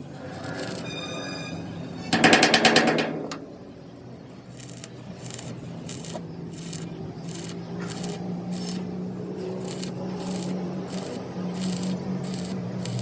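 Metalworking: a struck piece of metal rings, then about two seconds in comes a second-long burst of rapid hammering like a pneumatic tool. After it, steady light knocks about two or three a second go on over a constant motor hum.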